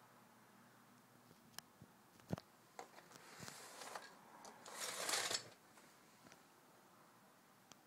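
A few faint clicks and knocks, then a rustle that builds over about two seconds in the middle and stops suddenly.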